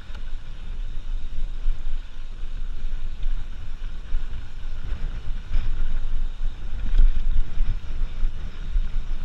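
Wind buffeting the microphone of a camera on a moving mountain bike, a steady low rumble that rises and falls, with one faint click about seven seconds in.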